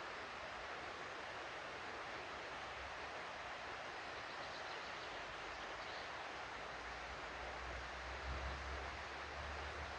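Stream water flowing steadily, an even rushing noise, with a low rumble joining in about seven seconds in.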